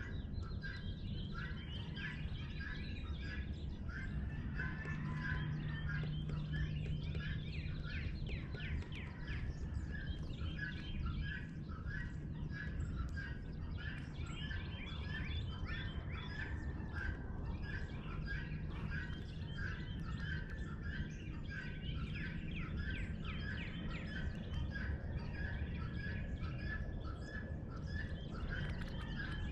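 Many birds calling at dawn, with a steady stream of short repeated chirps and other calls overlapping, over a low steady rumble and hum.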